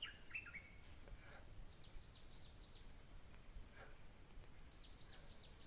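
A steady high-pitched insect drone, with a few faint bird notes over it: short notes in the first second or so, then faint downward-sweeping notes later.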